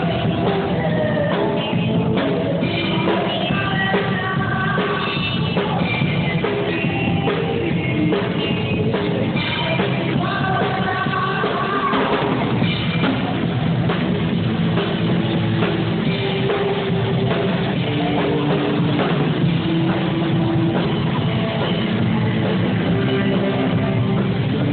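Live rock band playing a song: a singer over drum kit and guitar, loud and continuous.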